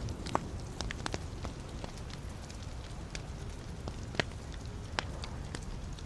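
Wood fire burning in a fireplace: a steady low rumble of the flames with irregular sharp crackles and pops from the burning logs, the loudest pops about half a second in and about four seconds in.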